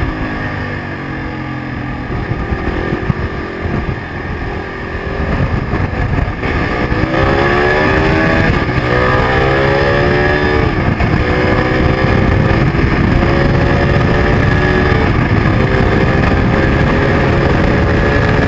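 Zongshen RX3 (Corven 250 Touring) single-cylinder 250 cc engine, heard from the rider's seat: it runs unevenly at low speed in traffic, then about six or seven seconds in it accelerates, the pitch climbing and dropping back through a couple of gear changes, before settling into a steady cruise.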